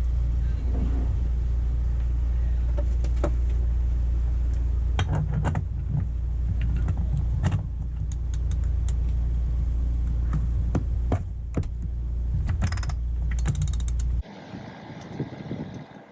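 Sailboat rigging hardware clicking and creaking in irregular bursts over a steady low rumble. The rumble cuts off abruptly near the end, leaving a quieter background.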